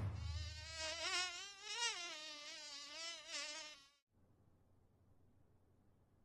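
A thin insect whine with many overtones, wavering rapidly up and down in pitch, that cuts off suddenly about four seconds in, leaving near silence.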